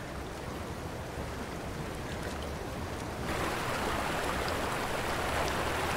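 Running river water, a steady rush that gets louder and brighter about three seconds in.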